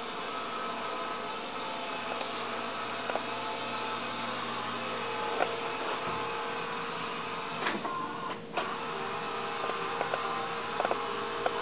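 Small DC drive motors of a robotic bar fridge running steadily as it drives, with a few short clicks and knocks from the chassis.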